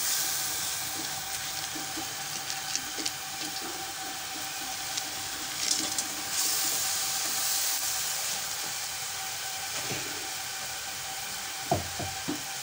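Hot ghee and spices sizzling steadily in a kadhai as besan-coated potato pakoras are dropped in, with a few light knocks near the end.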